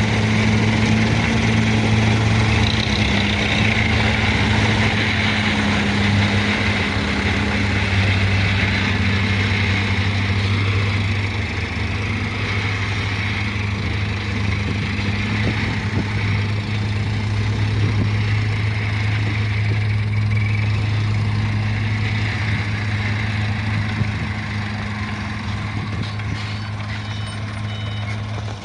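Mitsubishi Canter HDX dump truck's diesel engine running steadily at a constant low hum, easing off slightly near the end.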